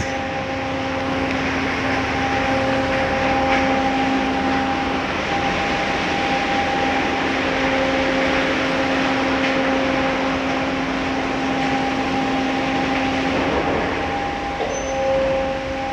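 Automatic car wash machinery running around the car: a steady hiss of spray with a motor's even hum underneath, the hum shifting pitch slightly near the end.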